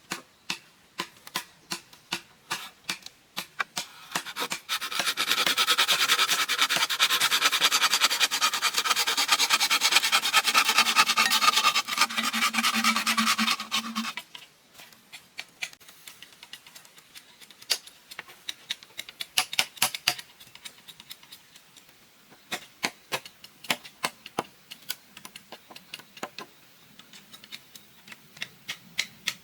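Hand work on bamboo: scattered sharp knocks and taps, with a long stretch of steady scraping or rasping in the first half that stops abruptly.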